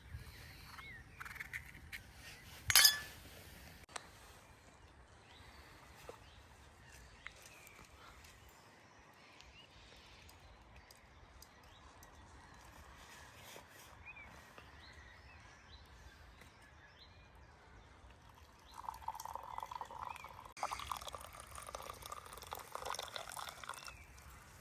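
Liquid pouring for the last six seconds or so, growing fuller about two seconds after it starts, over faint birdsong. A single sharp clink about three seconds in.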